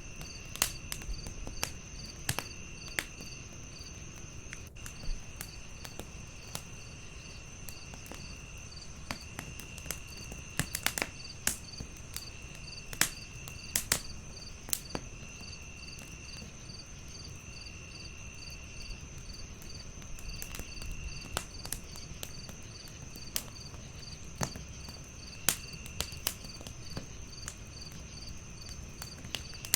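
Crackling wood fire with sharp, irregular pops over a low rumble, against a night chorus of crickets: one steady high trill, a second chirp pulsing about three times a second, and a lower insect call coming in bursts of about a second.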